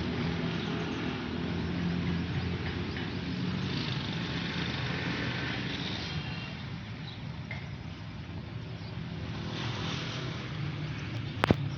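A steady low engine hum, with a single sharp click near the end.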